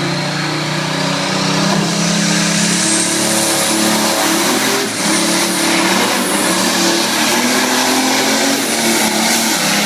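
John Deere 830 two-cylinder diesel tractor engine running hard under full load on a pull. Its pitch rises over the first few seconds and then holds steady, with a brief dip about five seconds in.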